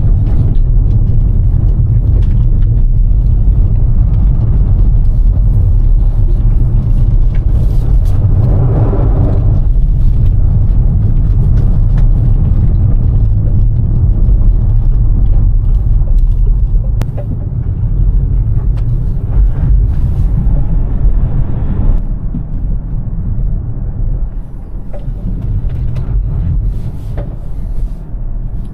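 Smart #3 electric car driving, heard as a steady low rumble of road and tyre noise with no engine note. There is a brief swell of higher noise about nine seconds in, and the rumble eases somewhat in the second half.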